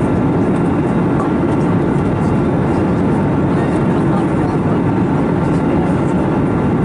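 Steady cabin noise of an Airbus A321neo in flight: an even rush of airflow and CFM LEAP-1A engine noise, heaviest in the low range, with no change in level.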